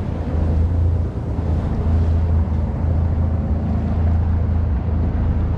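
Fishing boat's engine running as the boat gets under way, a steady low drone.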